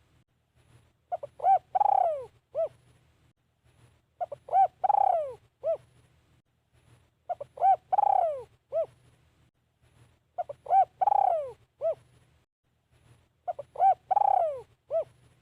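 Spotted dove cooing its song five times, a phrase about every three seconds: a few short coos, a longer falling coo, then one short closing coo.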